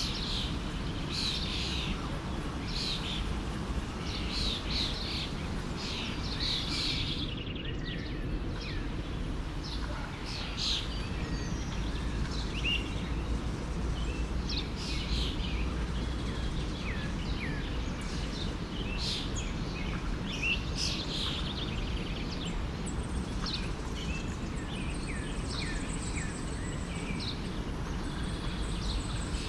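Many small forest birds chirping and calling in quick short phrases over the steady rush of a flowing stream.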